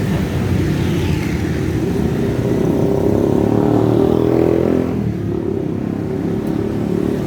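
A motor vehicle's engine running close by, growing louder and rising in pitch toward the middle, then dropping away after about five seconds as it passes.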